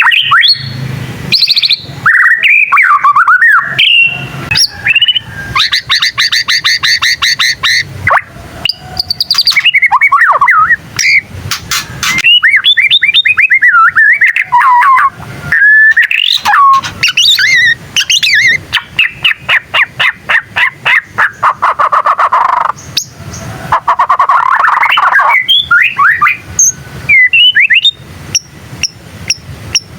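White-rumped shama (murai batu) singing loudly and close. The song is a varied stream of whistled sweeps and fast runs of repeated notes, with a harsher, raspier passage about three-quarters of the way through.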